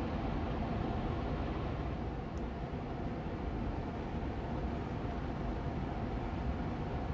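Air purifier fan, an Austin Air Allergy Machine, running steadily on medium speed: an even airy rush with a faint steady hum.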